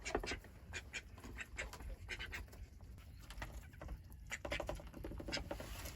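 Hens in a coop: scattered short clicks and scratches, with a few soft low clucks in the second half.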